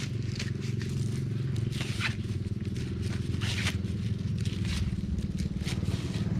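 A steady engine hum, with repeated crackling and rustling of dry corn leaves and husks being handled.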